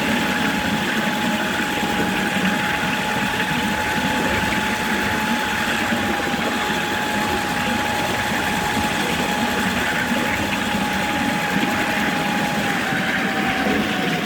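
RoR Hercules electric locomotive 'Lindow' running, with a steady motor whine over a running rumble. The whine falls a little in pitch near the end.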